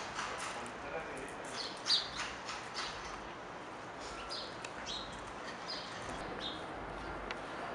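Small birds chirping: short, high chirps repeating irregularly over a steady hiss of background ambience.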